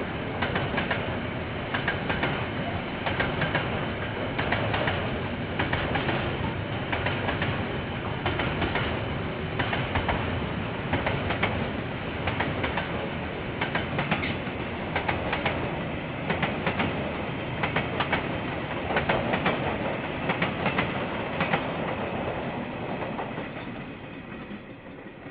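KiwiRail train passing, its wagons rumbling along with a repeated clickety-clack of wheels over the rail joints; it fades away over the last few seconds.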